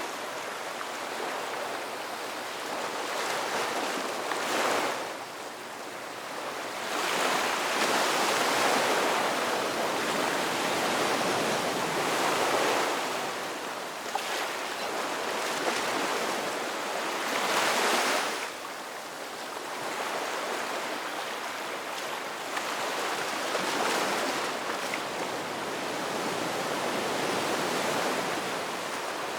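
Ocean surf: waves breaking and washing up the beach in a continuous roar that swells with each breaker, several times.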